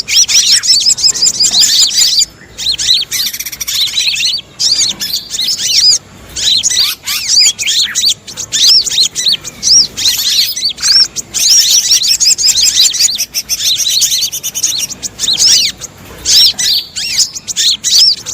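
A recorded bird-lure track of many small birds chirping and chattering noisily together: fast, high, arching chirps that run almost without a break, with only a few brief pauses. It is a mixed chorus of busy bird calls, played to draw sogon birds down to the trap.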